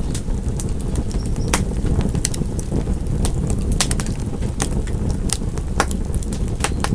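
Wood fire crackling in a fireplace: irregular sharp pops and snaps, about two a second, over the steady low rumble of the burning fire.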